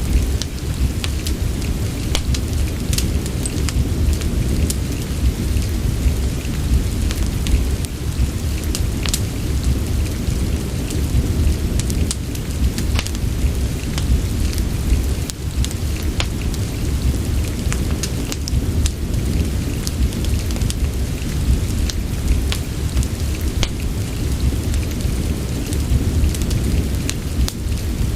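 Steady rain with a continuous low rumble, and a wood fire crackling in a fireplace, with sharp pops scattered a few times a second.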